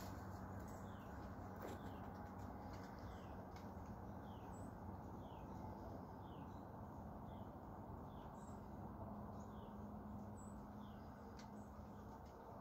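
Faint bird calls: a short falling chirp repeated at an even pace, about two a second, over a steady low hum.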